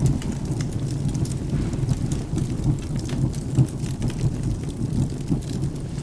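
Crackling fireplace mixed with rain and thunder: a steady low rumble with scattered small sharp crackles over it.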